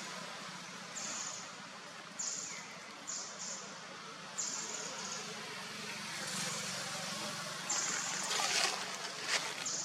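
Outdoor ambience: a steady low hum under a series of short high-pitched buzzes, each starting abruptly and fading within about a second, with a few sharp clicks near the end.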